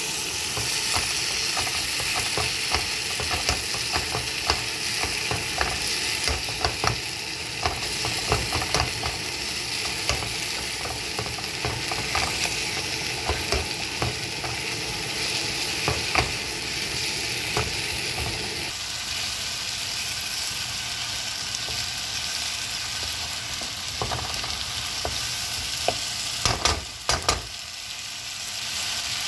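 Chopped onion and tomato sizzling as they fry in a pan, with a slotted spatula scraping and tapping against the pan as it is stirred. The stirring clicks thin out about two-thirds of the way through, and a few louder knocks come near the end.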